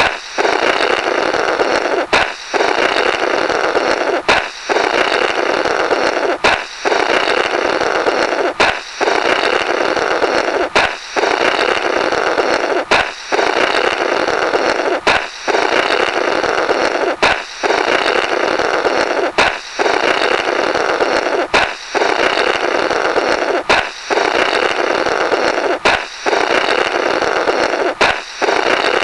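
A comic 'Blorrrt' balloon sound effect: a balloon pops, then someone blows a long buzzing, flapping raspberry through the burst rubber. The same effect repeats about every two seconds with a sharp click and a brief gap between repeats.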